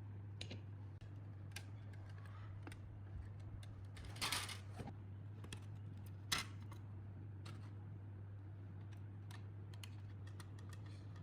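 Light clicks and taps of small parts being handled, over a steady low hum. About four seconds in there is a louder rustling scrape, and soon after a single sharp click.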